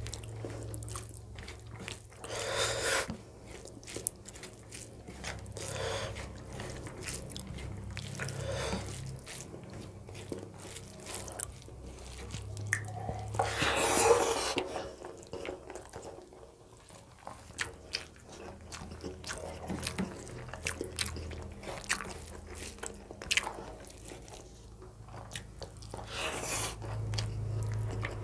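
A person chewing and biting through a meal of rice, dal and fried vegetables, with irregular wet mouth clicks and smacks. There is a longer, louder noise about fourteen seconds in, over a low steady hum.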